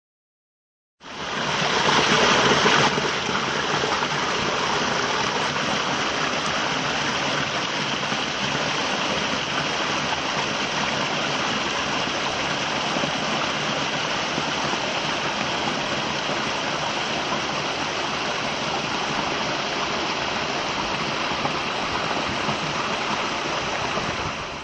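Mountain stream rushing over small waterfalls and rocks: a steady, even rush of water that starts about a second in, a little louder for its first couple of seconds.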